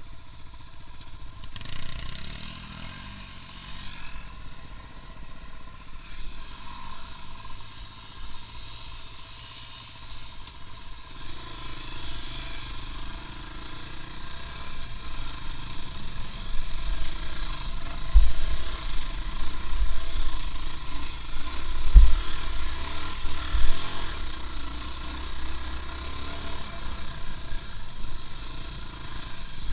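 Vehicle engine running and getting louder from about eleven seconds in, with heavy low thumps in the second half.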